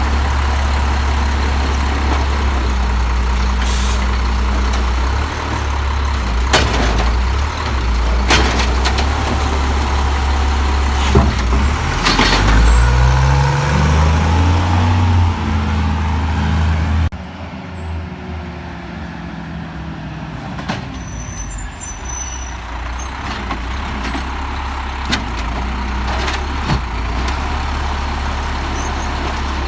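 Peterbilt 320 garbage truck's engine running, revving up with a rising pitch about halfway through, then dropping abruptly to a quieter running sound about seventeen seconds in. Sharp knocks come through several times.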